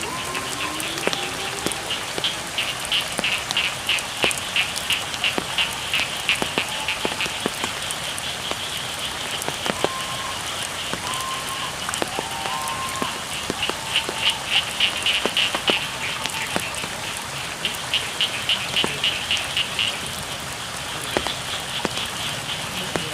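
Steady rain falling, with scattered sharp drips, under a frog chorus that comes in bouts of rapid, high-pitched pulsed trills a few seconds long.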